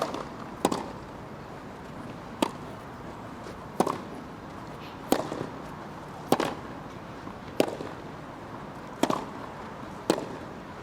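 Tennis rally: a racket strikes the ball again and again, about nine sharp hits spaced roughly a second or a second and a half apart.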